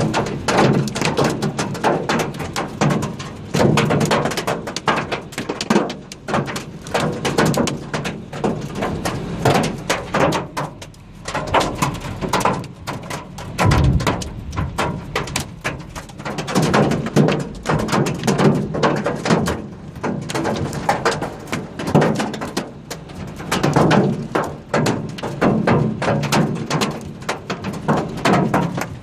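Hailstones pelting a hard surface: a dense, irregular clatter of knocks that keeps up without letting off.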